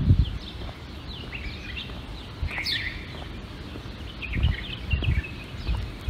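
Small songbirds chirping and twittering in many short calls, with one louder downward-sweeping call near the middle. A few low thuds sound at intervals underneath.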